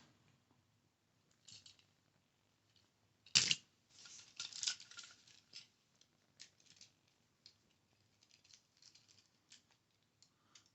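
Handling and tapping of small die-cast Hot Wheels toy cars: one sharp click about three and a half seconds in, then a short run of scratchy clicks and taps, followed by sparse light ticks.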